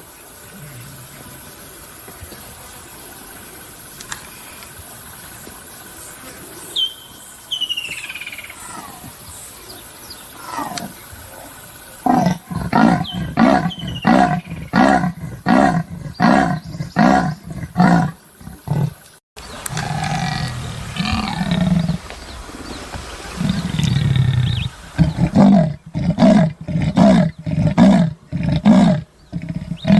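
Leopard giving its rasping sawing call: two bouts of regular harsh grunts, about one and a half a second, the first starting about twelve seconds in and the second near the end. A bird chirps a few times before the first bout.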